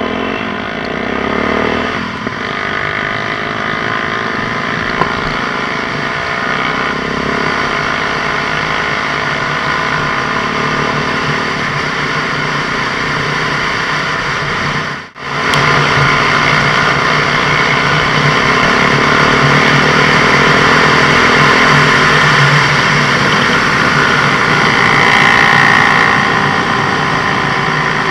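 Adly 300 XS quad's engine running through an aftermarket Akrapovic-style silencer, its pitch rising and falling with the throttle. The sound cuts out for a moment about halfway through, then comes back louder.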